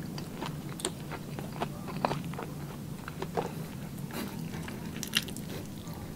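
Close-miked mouth sounds of a person eating squid adobo by hand: chewing and biting, with short wet clicks and smacks scattered irregularly throughout.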